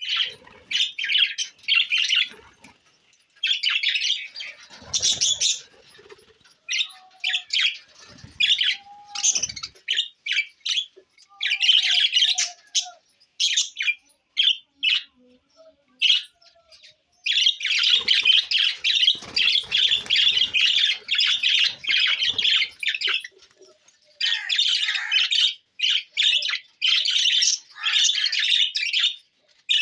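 Budgerigars chattering and chirping in bouts of rapid, scratchy warbling, with short pauses between and a long unbroken run in the middle.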